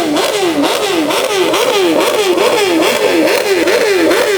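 Car engine revved in quick repeated throttle blips, about two to three a second, the pitch jumping up sharply and falling back each time.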